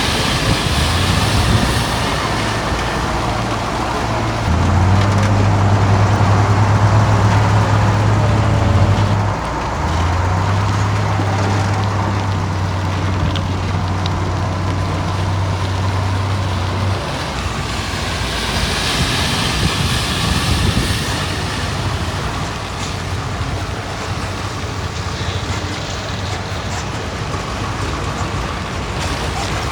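Diesel engines of heavy earthmoving machinery, bulldozer and dump truck, running at work. A deep, steady engine note swells twice in the first half, then gives way to a rougher, even machine noise.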